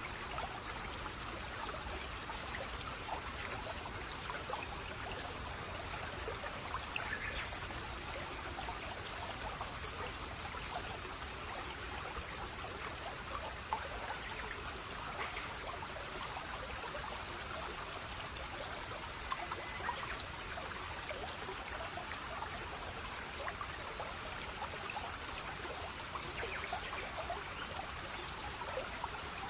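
Running water, trickling and splashing steadily with a continuous babble.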